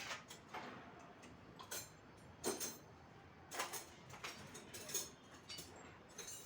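Irregular metallic clicks and light knocks, about ten spread over several seconds, from hand tools on engine parts as the engine is taken apart.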